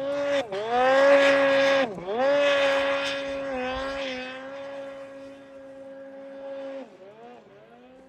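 Snowmobile engine revving hard, its pitch dropping and climbing again several times as the throttle is let off and opened, loudest early on, then holding a steady high pitch and fading away, dropping off sharply near the end.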